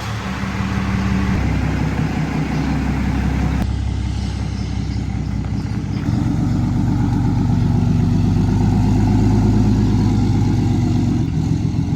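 Diesel pickup truck engine running steadily at low speed, a little louder from about six seconds in.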